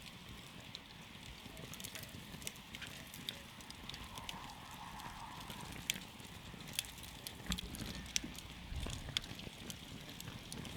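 Wood campfire crackling, with frequent irregular sharp pops and snaps over the steady hiss of the flames.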